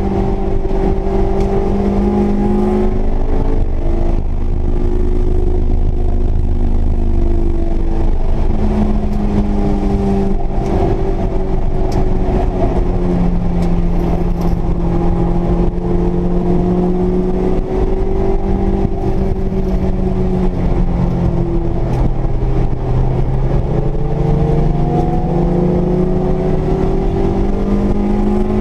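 Honda S2000's high-revving 2.0-litre four-cylinder engine at full effort on a race track, its note climbing and dropping back again and again through gear changes and braking, over steady wind and road rumble.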